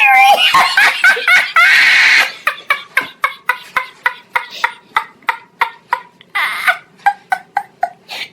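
A person laughing in a long string of short, regular bursts, about three a second, after a loud, high-pitched voice in the first two seconds.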